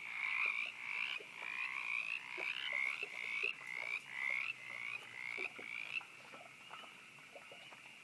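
Frogs croaking: a steady series of high calls at about two a second, which stop about six seconds in.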